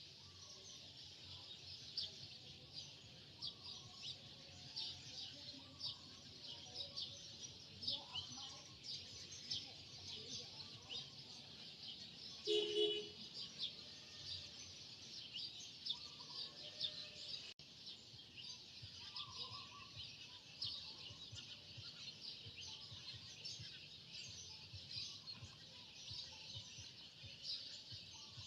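Many birds chirping continuously in a dense chorus of short, high chirps. About halfway through there is one brief, louder pitched sound.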